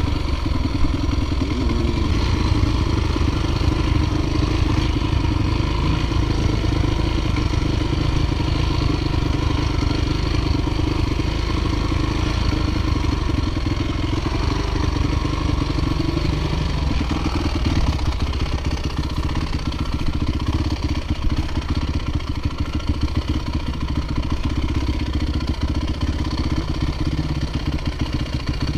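Dirt bike engine running steadily under way, its note shifting partway through.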